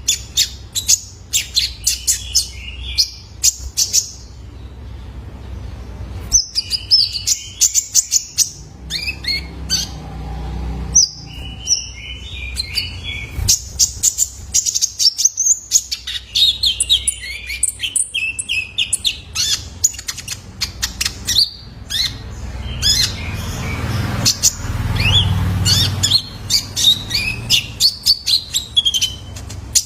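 Young male brown-throated sunbird (konin) singing in rapid runs of short, high chirps and twitters, with brief pauses between phrases. A low background rumble rises twice, near the middle and later on.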